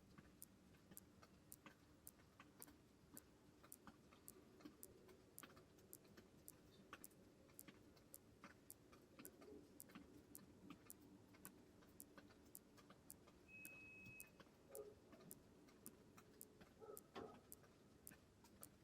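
Faint, even ticking, about two ticks a second, over a low steady hum. A short high beep sounds about three-quarters of the way through, and a few soft knocks come near the end.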